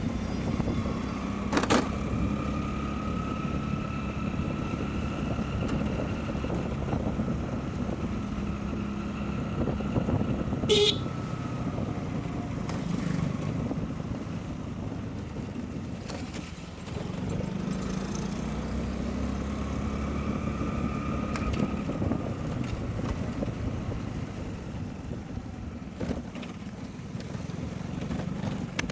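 Motorcycle engine running under way, with road and wind noise; its pitch rises and falls slowly, and there is a brief sharp sound about eleven seconds in.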